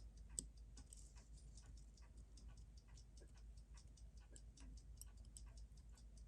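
Near silence with faint, rapid small clicks, several a second, from hand work on a Seiko 6138 chronograph movement during disassembly.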